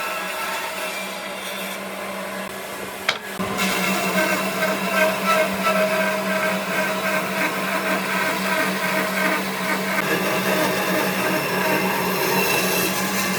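An electric power tool's motor running steadily with a constant hum. There is a sharp click about three seconds in, and after it the tool runs a little louder.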